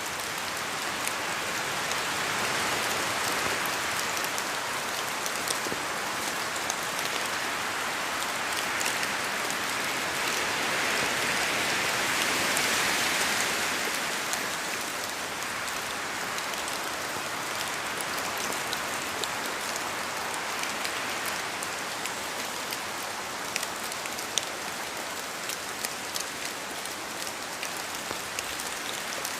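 Steady rain falling in a forest, with single drops from the trees ticking sharply over the rush of the rain. The rush swells louder about two to four seconds in and again around the middle, then settles.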